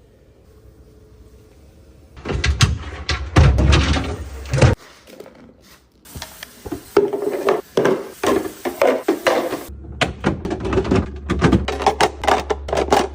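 Restocking clatter: a quick run of clicks, knocks and thunks as containers and food items are handled and set down in a fridge, in short bursts with abrupt breaks between them.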